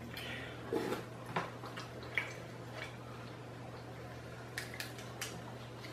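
Close-up eating sounds: a scattered run of short mouth smacks and clicks while chewing, over a steady low hum.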